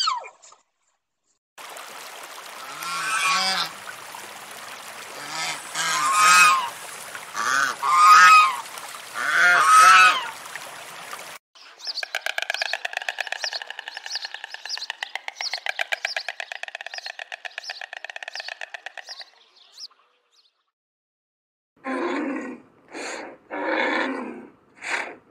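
Animal calls from several separate recordings. First comes a series of short calls of several pitches over a steady hiss, then a fast rattling call lasting about eight seconds, then short repeated calls near the end.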